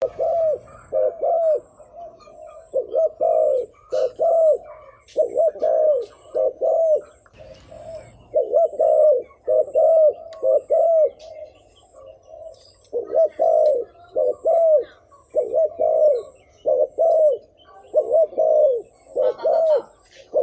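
Spotted dove giving its rapid 'gù' coo, the short excited cooing used on a caged decoy bird to lure wild doves. Runs of short coos, each rising and falling, two to three a second, with brief pauses about two, seven and twelve seconds in.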